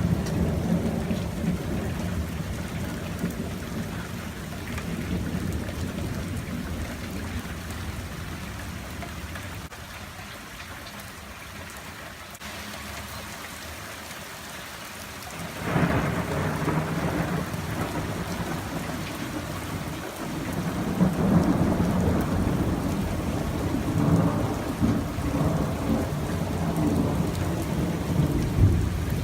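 Rolling thunder over steady rain: a long rumble fades away over the first dozen seconds, then a new peal breaks in suddenly about halfway through and keeps rumbling, swelling again a few times toward the end.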